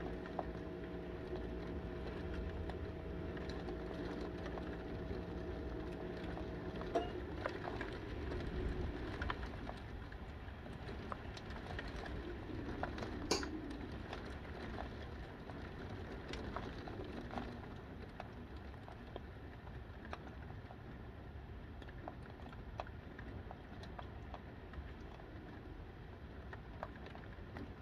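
Heavy wind-driven rain, a steady noise with scattered ticks of drops striking the window glass and one sharper tap about thirteen seconds in. A steady low hum runs under it for the first seven seconds or so, then stops.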